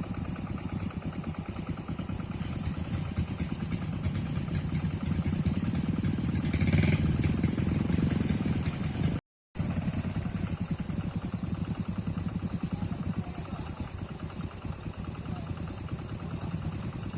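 An engine running steadily with a rapid, even firing pulse, briefly cut off about nine seconds in. A steady high whine sits above it.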